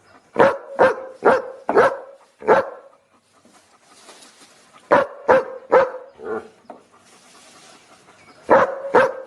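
A dog barking in quick runs: five barks, a pause, about five more, another pause, then two barks near the end.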